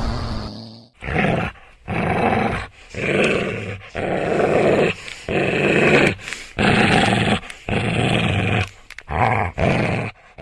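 A pet animal growling in a run of bouts, roughly one a second with short pauses between them.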